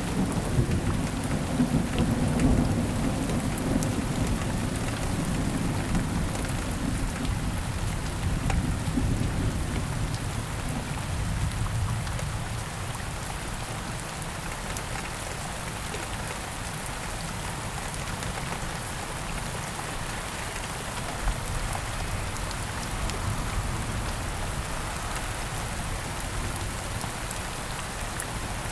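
Steady rain falling, with a long low rumble of thunder through the first half that fades out about halfway.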